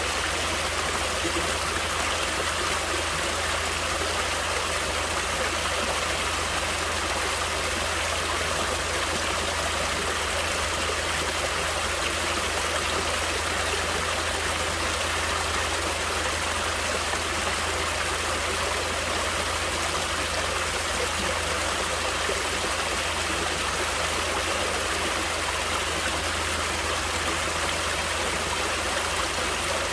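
Natural running water flowing steadily, a continuous even rush with no changes.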